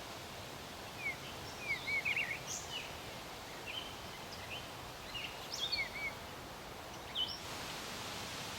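Short, quick songbird chirps and call notes in small clusters, about a second in, around four and six seconds in, and once more near seven seconds, over a steady outdoor hiss.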